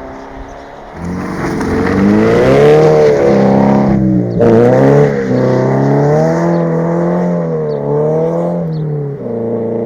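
Subaru BRZ's FA20 flat-four engine through a Corsa cat-back exhaust under acceleration. After about a second the throttle opens and the revs climb. About four seconds in the pitch drops sharply and climbs again, and the revs rise and fall before easing near the end.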